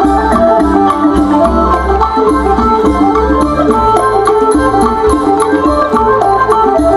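Traditional Isan (northeastern Thai-Lao) folk dance music: a melody in held, layered notes over a regular drum beat.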